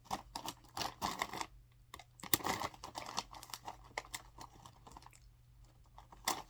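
Irregular crisp clicks and crackles of a Banana Kick corn-puff snack being handled and crunched, with crinkling of its plastic bag. They are busiest in the first three seconds and thin out after that.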